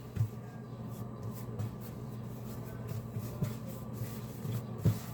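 Quiet handling sounds of sourdough dough being shaped by hand on a counter: faint soft taps and rustles over a low steady hum, with one slightly firmer knock near the end.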